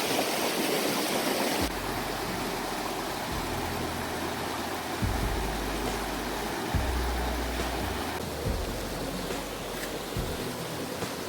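Creek water flowing steadily at the falls, louder for the first couple of seconds and then a little softer. Low rumbles come and go several times in the second half.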